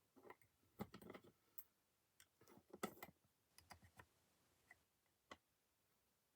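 Faint, irregular clicks and taps of small plastic and metal parts being handled while a model locomotive is put back together and its screw threaded in. The clicks come in short flurries over the first four seconds, then two single ones.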